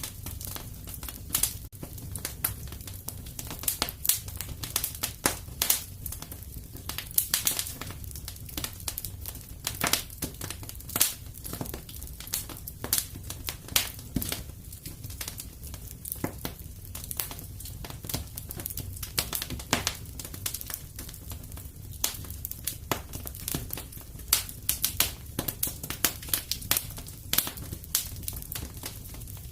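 Wood fire in a fireplace crackling: irregular sharp pops and snaps, some in quick clusters, over a steady low rumble of the burning logs.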